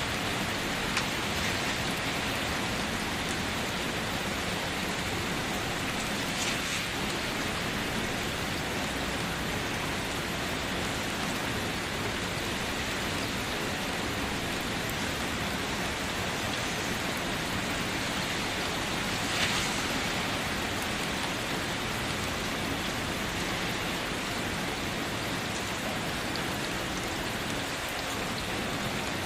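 Steady rainfall, an even hiss of drops, with two brief louder ticks about six and about nineteen seconds in.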